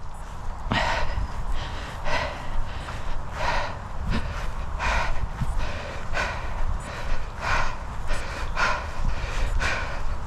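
A runner breathing hard close to the microphone, with a heavy out-breath about every second and a bit, over a steady low rumble. It is the laboured breathing of running hard uphill.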